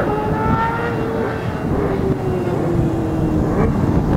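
Racing motorcycle engine running hard on the track, its pitch slowly falling, with a short rising rev near the end.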